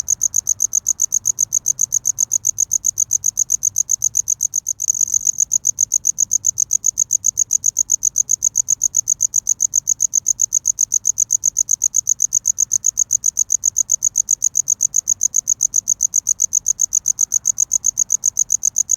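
Cricket chirping: a high, clear trill of rapid, evenly repeated pulses, the male's calling song to attract a mate. A faint click about five seconds in.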